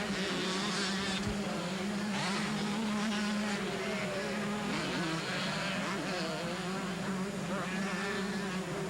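Several 125cc two-stroke motocross bikes racing, their engines buzzing and revving up and down over a steady drone.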